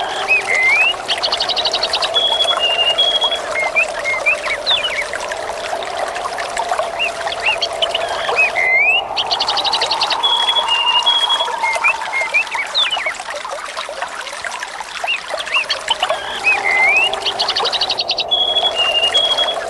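Water trickling and flowing steadily while small birds chirp and whistle. The same bird phrase, a quick trill followed by a few short whistled notes, comes back about every eight and a half seconds, as in a looped recording.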